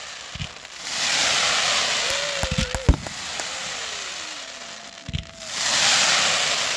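Aerial fireworks display: several sharp bangs of shells launching and bursting, with two long stretches of dense crackling from crackling stars.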